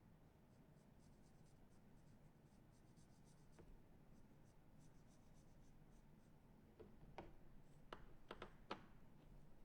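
Faint scratchy strokes of paint being applied to a rock, followed near the end by about five light, sharp taps.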